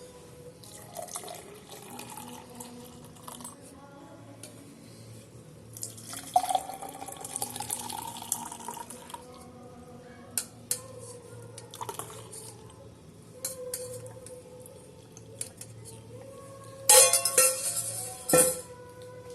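Milk being poured into glasses, its pitch rising as a glass fills, among light clinks of glassware and a louder clatter of dishes near the end.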